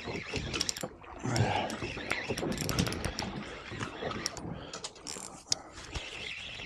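Fishing reel working a fish in, with a rapid irregular clicking of the reel's mechanism.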